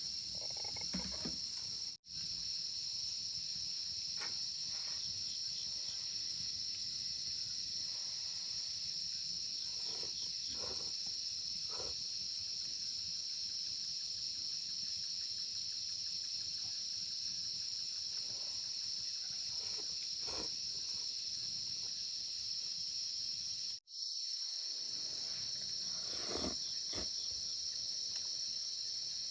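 Steady high-pitched chirring of insects, with a few faint rustles and knocks; the sound cuts out briefly twice.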